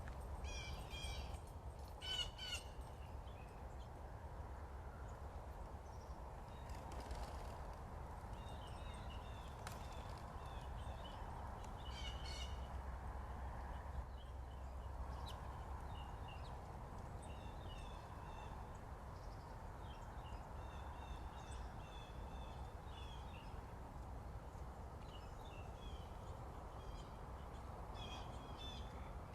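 Wild birds singing and calling outdoors in the morning, short repeated chirping phrases coming and going throughout, over a steady low background noise.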